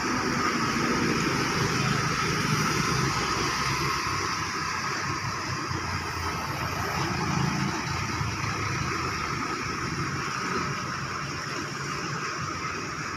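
Steady road-traffic noise: vehicle engines running with a continuous hiss over them.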